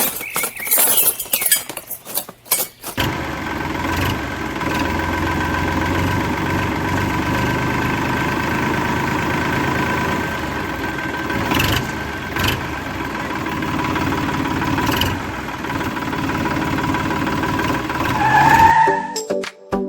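Clicks and knocks for about three seconds, then a small motor running steadily with a high whine. Its pitch rises briefly near the end and it cuts off.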